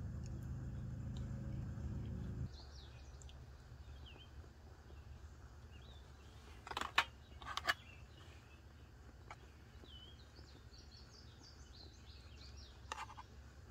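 Small songbirds chirping faintly in short, high calls, with a low hum that cuts off suddenly a couple of seconds in. A few sharp clicks near the middle are the loudest sounds.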